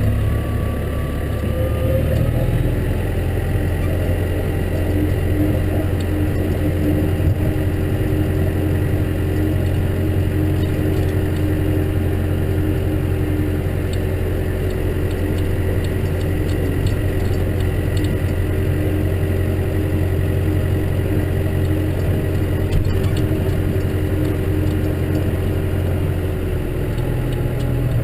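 Case tractor engine running at a steady speed, a continuous low drone that shifts slightly in pitch near the start and again near the end.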